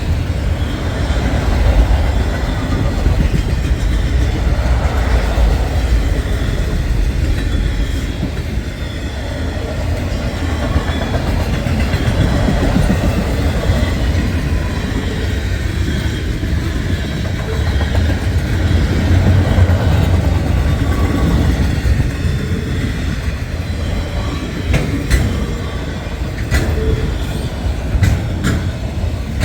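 Freight cars of a long manifest train rolling past: a steady rumble of steel wheels on the rails, with sharp clicks over rail joints that stand out near the end.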